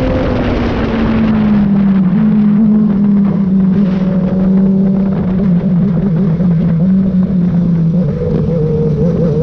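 Motorcycle engine running at road speed with wind rushing past, its note easing slightly lower over the first couple of seconds, holding steady, then wavering near the end.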